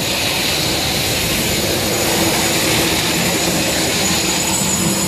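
Hand grinders fitted with coating removal heads running steadily, stripping old coating off a concrete deck: a constant high whine over grinding noise.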